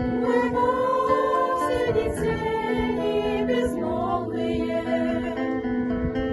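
A children's vocal ensemble singing a ballad together, holding long sustained notes.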